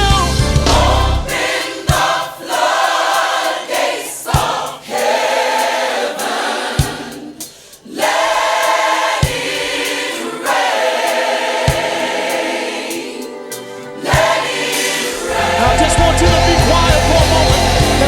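Background music: a gospel choir singing with a band. The bass drops out for most of the stretch, leaving the voices over sharp beats about every two and a half seconds, and the full band comes back in near the end.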